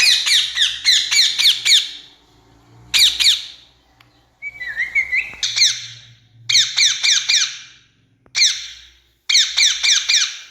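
Rose-ringed parakeet calling: harsh, shrill screeches in quick bursts of three to six notes, each note dropping in pitch, with brief pauses between bursts. A short warbling note comes near the middle.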